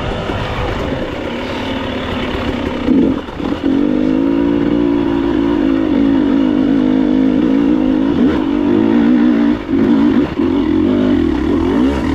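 Enduro motorcycle engine revving hard under load, its pitch wavering up and down as the throttle is worked. It dips briefly about three seconds in, then holds at high revs.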